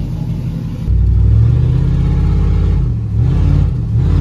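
LS V8 in an OBS Chevy pickup running through shorty headers and a nearly straight-piped exhaust, stupid loud. About a second in it gets louder, and the engine note then dips and rises a couple of times as the revs change.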